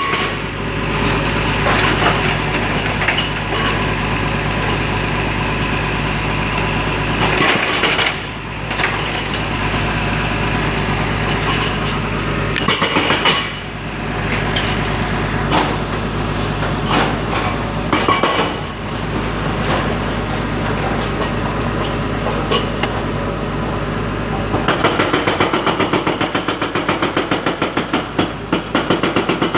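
Diesel engine of an L&T Komatsu heavy machine running steadily at work, with occasional clanks. Near the end the sound turns into a fast, even pulsing of about four beats a second.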